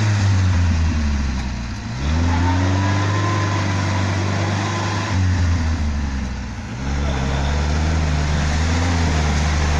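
UAZ off-road vehicle's engine revving hard under load, dropping off twice and climbing back, as the vehicle strains against a log blocking its way.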